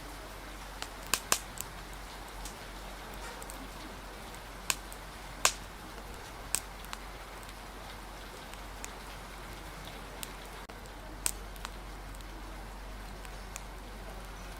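Rain and fire ambience: a steady hiss of rain with the sharp, irregular pops and cracks of a wood fire crackling, the loudest pops a little over a second and about five and a half seconds in.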